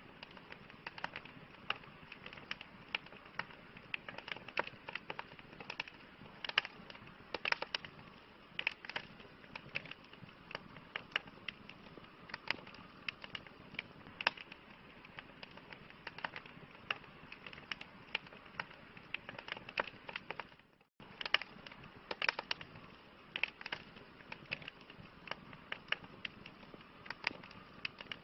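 Wood campfire crackling: many sharp, irregular pops and snaps over a steady low hiss of burning. The sound cuts out for a split second about two-thirds of the way through.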